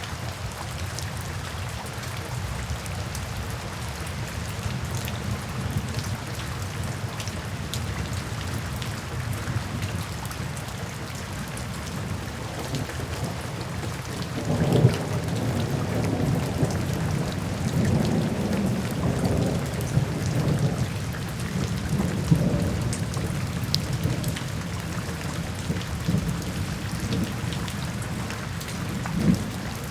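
Steady rain falling, with thunder rolling in from about halfway through: a low rumble with a few sharper cracks.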